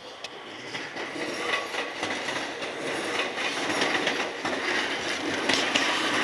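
A Keio Inokashira Line electric train approaching on the rails, growing steadily louder, with scattered clicks over the running noise.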